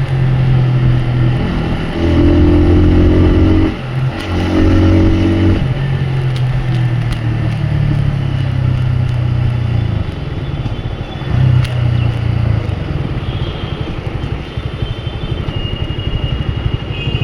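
Motorcycle engine running while riding in traffic, its note holding and then shifting in pitch several times as the throttle opens and closes, over road noise.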